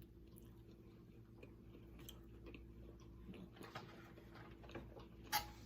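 Faint chewing with small mouth clicks from someone eating baklava, over a steady low hum. There is a sharper click near the end.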